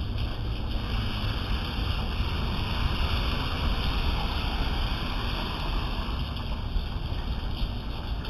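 Steady rain falling: a constant, even hiss with a low rumble underneath.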